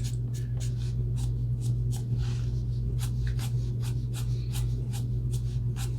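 Alcohol marker being stroked across paper in quick, repeated short strokes, several a second, over a steady low hum.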